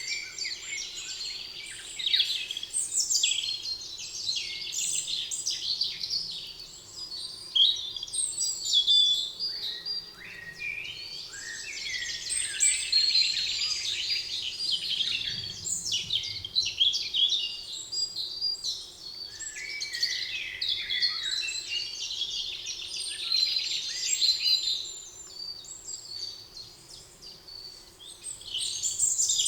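Chorus of several songbirds singing at once: rapid overlapping chirps, trills and whistles, busy throughout with a lull near the end.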